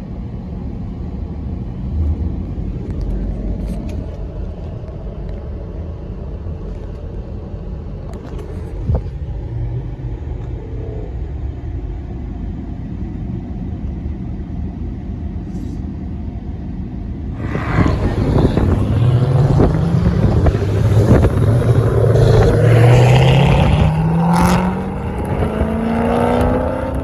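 Car engine running with a low, steady rumble, then from about two-thirds through it revs up and accelerates, its pitch rising in several climbs.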